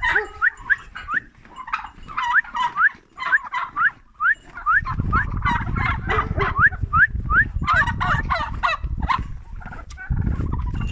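Domestic turkeys calling close by: a busy run of short rising calls, two or three a second. From about five seconds in, a low rumble sits under the calls.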